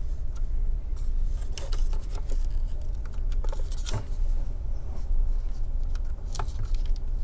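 Scattered light clicks and taps of small laptop parts being handled while the new DC jack's cable is routed and fitted, over a steady low hum.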